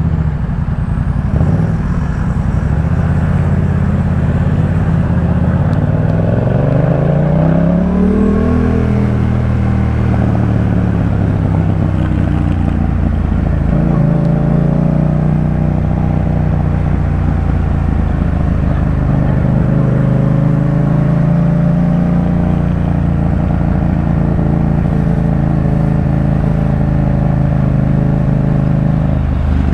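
Yamaha MT-07's parallel-twin engine through a Jeskap K4 full aftermarket exhaust, running under way at a steady pitch. About six seconds in the revs rise for a few seconds, then drop back to a steady cruise.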